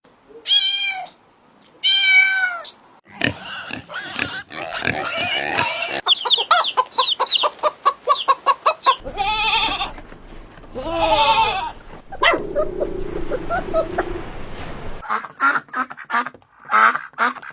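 A run of different animal calls cut one after another: two short meow-like cat calls first, then noisier calls, a rapid series of about five calls a second, two more drawn-out calls, a long low steady call, and a few short calls near the end.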